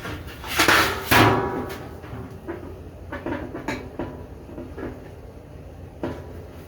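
Handling knocks and clanks, two loud ringing ones about a second in, then a series of lighter knocks and taps.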